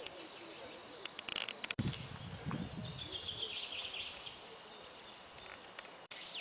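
Small birds chirping in short, quick strings of notes. A brief low rumble comes about two seconds in.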